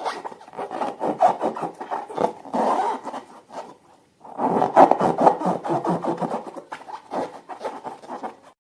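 Slime being squished and worked by hand: a dense run of wet, crackling clicks, with a short pause a little under halfway through.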